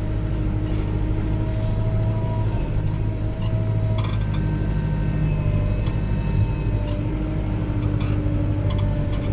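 Kubota L3940 compact tractor's diesel engine running steadily under load, heard from inside the tractor's cab as a low drone with a few steady tones that shift slightly in pitch.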